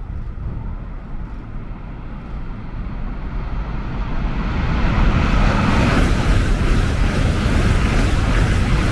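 High-speed electric train running: a steady low rumble with a rushing noise that builds and grows louder from about halfway through, then holds level.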